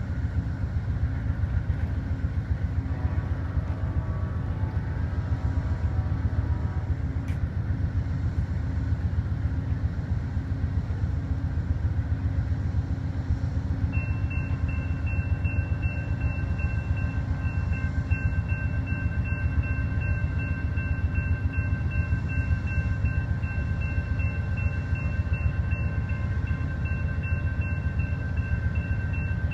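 A train rumbling past a grade crossing, a dense low rumble throughout. About 14 seconds in, a high-pitched electronic crossing-signal bell starts ringing and keeps on.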